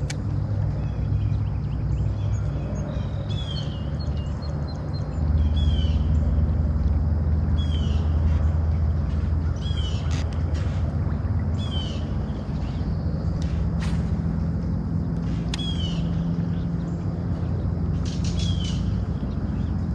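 A bird calling over and over, a short high note about every two seconds, over a steady low hum that grows louder and deeper about five seconds in.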